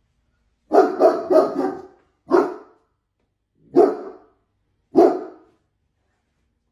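Dog barking: a quick run of three barks, then three single barks spaced a second or more apart.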